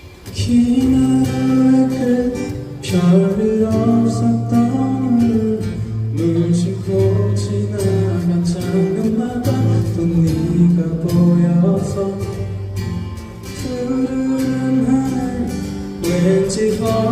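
Live pop band music led by acoustic guitar, starting up about half a second in after a brief lull.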